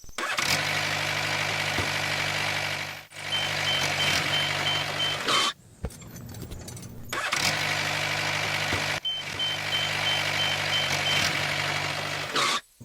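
A vehicle engine running steadily in two stretches with a short break between, and a rapid high-pitched beeping, like a reversing alarm, over the second half of each stretch.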